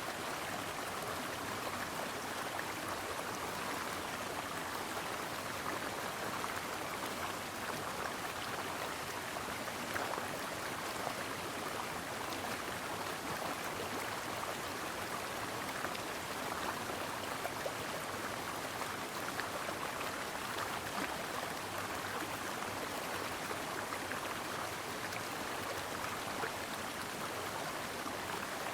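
Stream water flowing steadily over rocks, an even rushing and babbling with no breaks.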